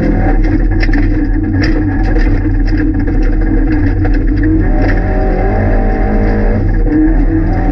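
Rally car engine heard from inside the cabin, running hard at speed, its note rising and falling with the throttle. Sharp ticks of gravel hitting the car come through the first few seconds.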